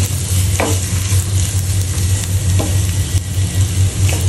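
Grated coconut frying in hot coconut oil with a tempering of mustard seeds, onion and curry leaves, sizzling steadily as it is stirred in the pan, with two brief clicks of the spoon. This is the stage of frying the coconut until it loses its raw taste.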